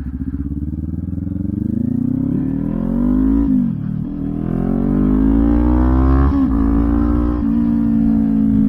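Kawasaki Ninja 400's parallel-twin engine through a LeoVince aftermarket exhaust, accelerating hard: the revs climb, drop sharply at two upshifts about three and a half and six and a half seconds in, then settle to a steady cruise.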